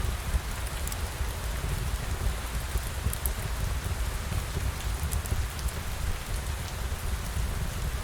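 Steady rain falling, an even hiss over a deep low rumble, with faint scattered ticks.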